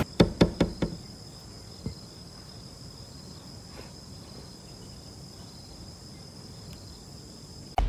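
About five sharp knocks in quick succession within the first second, then a steady, high-pitched chirring of insects over a faint hiss.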